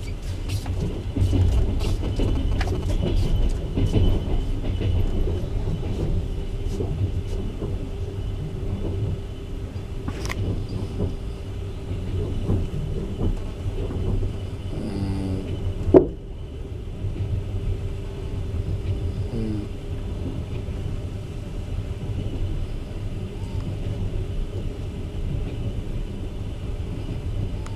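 Passenger coach running on the rails, heard from its window: a steady low rumble with a run of sharp wheel clicks over the track in the first few seconds. A single sharp knock stands out about halfway through.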